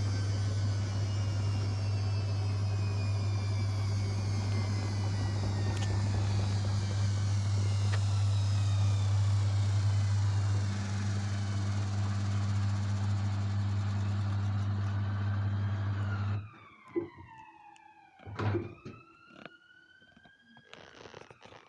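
Washing machine in its final high-speed spin: a steady loud hum with a whine that slowly falls in pitch, cutting off suddenly about sixteen seconds in. After that it is much quieter, with a couple of knocks and a thin whine that glides down and back up.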